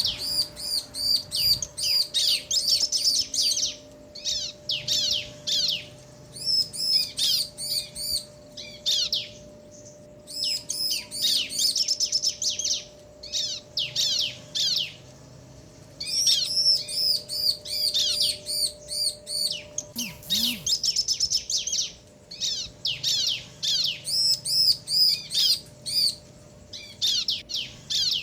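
Bar-winged prinias (ciblek), a male and a female, answering each other with bouts of rapid, high, sweeping chirps, each bout lasting a few seconds with short pauses between them.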